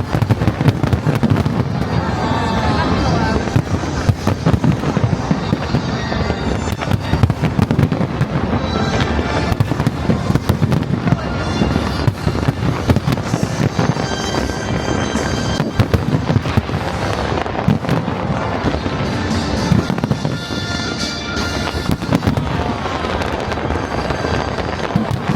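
Aerial fireworks display: a dense, continuous barrage of bangs and crackles.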